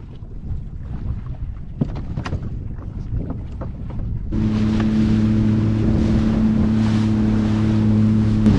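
Wind and water with a few small knocks, then, about four seconds in, a jet ski engine comes on suddenly and runs at a steady hum with water hiss, dropping away at the end.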